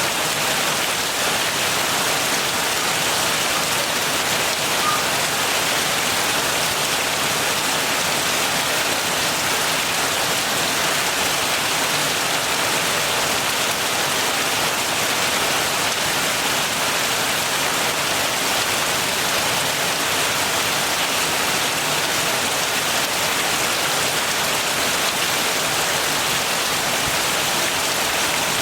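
Steady heavy rain falling, an even dense hiss with no breaks.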